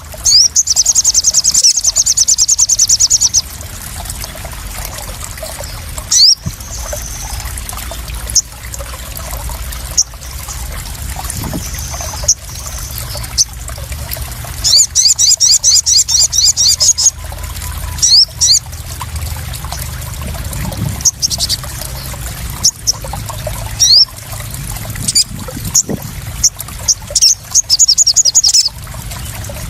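Sunbird song: rapid high trills of about ten chirps a second, each lasting two to three seconds, three times, with scattered single sharp chirps between. Water trickles and splashes steadily underneath.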